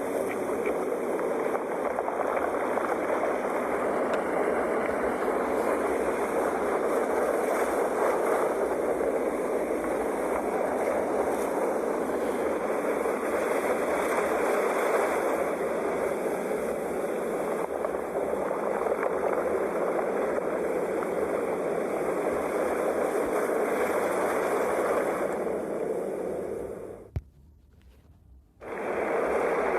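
Ocean waves washing on the shore, a steady rushing surf noise. It cuts out for about a second and a half near the end, with a click, then comes back.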